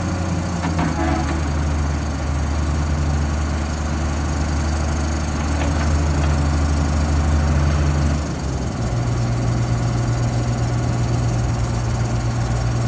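An engine running steadily, its pitch stepping up about eight seconds in and then holding at the higher speed.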